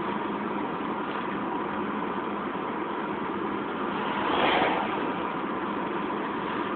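Steady road and engine noise heard from inside a moving car's cabin, swelling briefly about four and a half seconds in.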